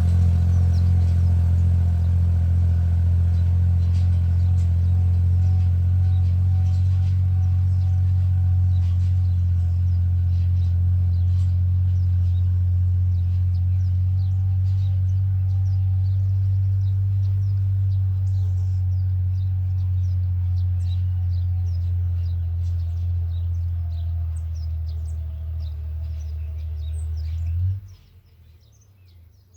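Small tractor's engine running steadily under load while pulling a disc harrow, cutting off abruptly near the end. Birds chirp faintly over it in the second half.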